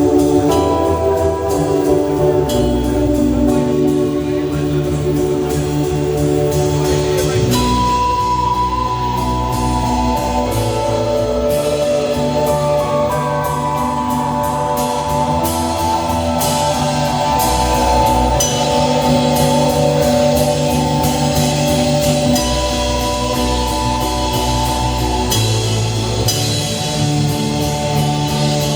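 Live rock band playing: a drum kit with steady cymbal hits over a bass line and held, sustained chords.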